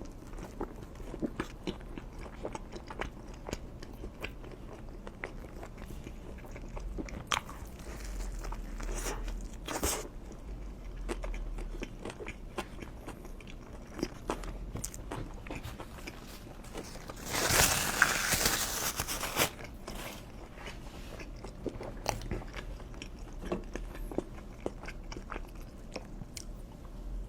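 Close-miked eating: biting and chewing a soft sandwich with many small wet mouth clicks. About two-thirds of the way through there is a louder burst of noise lasting about two seconds.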